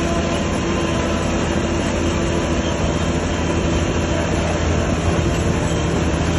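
Heavy diesel earthmoving machine running steadily: a low, even engine drone under a dense mechanical noise, with no change in pitch or level.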